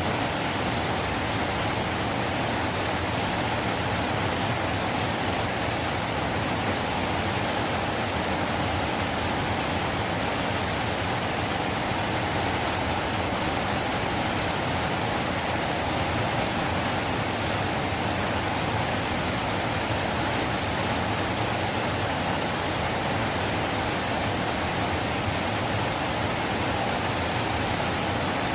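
River water flowing, a steady rushing noise with no breaks or changes.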